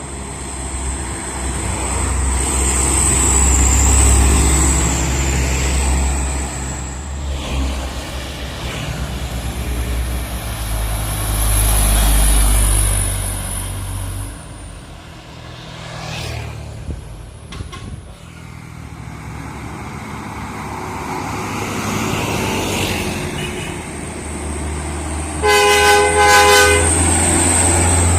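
Heavy trucks' diesel engines labouring up a steep climb, a deep rumble that swells and fades as they pass. Near the end an air horn sounds for about a second and a half.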